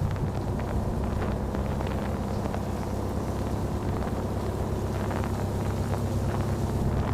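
Narrowboat engine running steadily under power, with rain pattering faintly over it.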